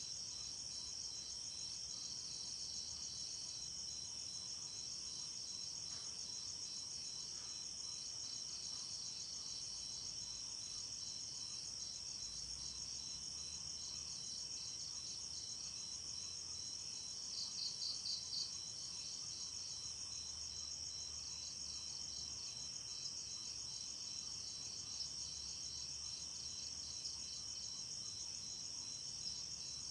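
Night insect chorus of crickets: steady, high-pitched, rapidly pulsing chirping. Just past halfway, one caller gives a brief louder run of about four chirps.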